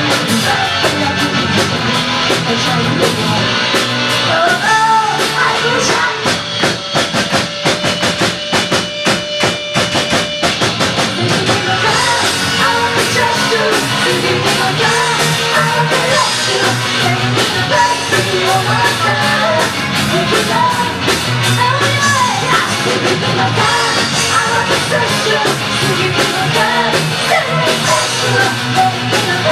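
Rock band playing a song with a lead singer, drum kit and guitars. About seven seconds in the singing stops for a few seconds of rapid drumming under a held note, then the vocal comes back.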